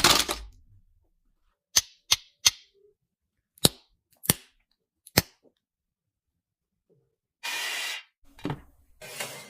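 Sharp, separate snaps and crunches from a Cadbury nut chocolate bar being broken and bitten, six in about three seconds, then rustling near the end.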